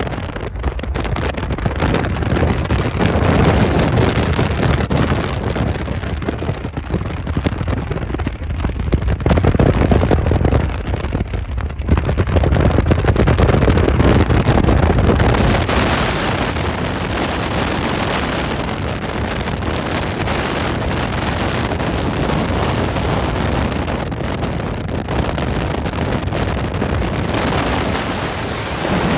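Diesel freight train running, a loud continuous low rumble with a rushing noise over it. Wind buffets the microphone.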